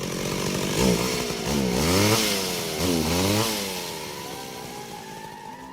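Chainsaw revving up and down about three times, its engine pitch swooping, then dying away.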